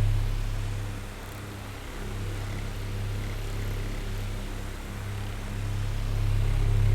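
Oscillating electric fan running with a low motor hum and a soft rush of air. The sound fades about a second in and swells back near the end as the fan head sweeps away and back.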